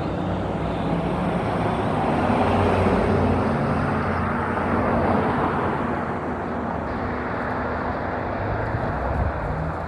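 Steady road-vehicle noise, a rushing hiss over a low engine hum, swelling louder for a few seconds in the middle before easing off.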